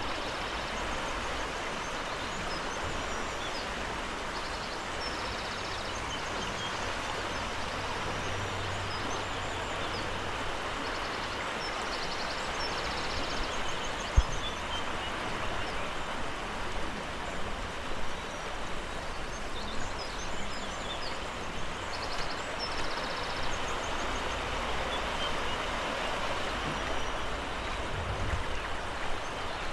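Steady rush of flowing water from a river running high after heavy rain.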